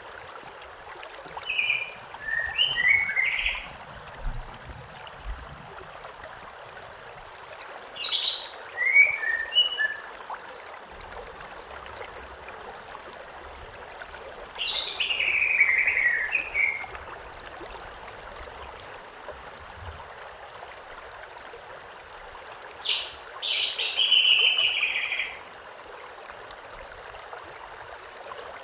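River or stream water flowing steadily, with a bird singing four short phrases, each a quick run of notes falling in pitch and about two seconds long, spaced six to eight seconds apart.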